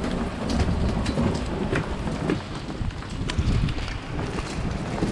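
Gusty wind buffeting the microphone in a rain and hail storm, with scattered sharp ticks of raindrops and hailstones striking around the camera.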